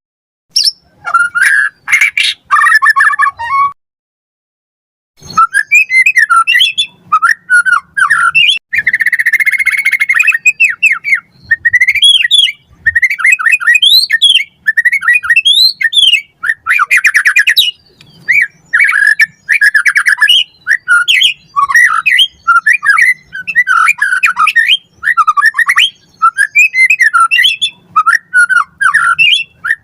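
White-rumped shama (murai batu) singing a fast, varied song of rising and falling whistled phrases mixed with harsh rattling notes. The sound cuts out completely for about a second near four seconds in.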